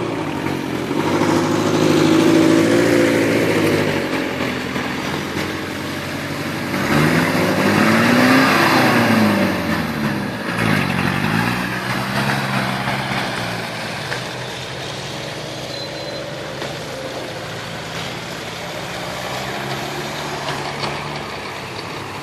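Nissan Terrano SUV's engine running under changing load. The engine note rises and falls: loudest about 2 s in, it climbs again to a peak about 8 s in, drops sharply about 10 s in, picks up again and then settles to a steadier, quieter note.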